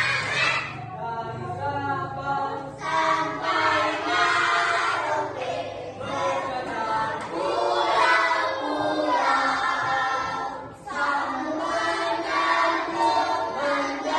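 A group of children singing together in unison without accompaniment, in phrases with short breaks between them.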